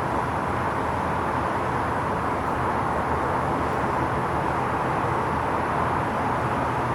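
Steady outdoor background noise, an even hiss with a low rumble underneath and no distinct events; no thunderclap is heard.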